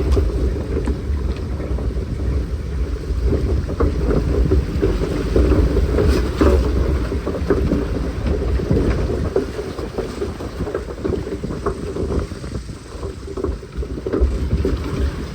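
Log flume boat floating along its water channel: water sloshing around the log with a steady low rumble and scattered small knocks.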